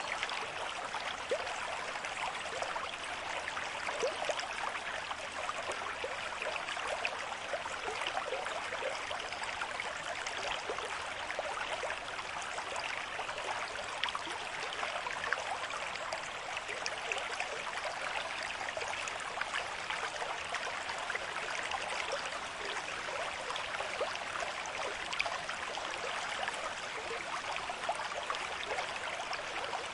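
A river stream flowing at a moderate rate, water rushing and splashing steadily over rocks with many small bright splashes.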